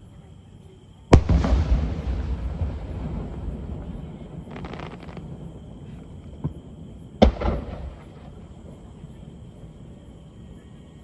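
Aerial fireworks shells bursting. A loud boom about a second in rumbles away over several seconds, a brief crackle follows a few seconds later, and a second boom comes about seven seconds in.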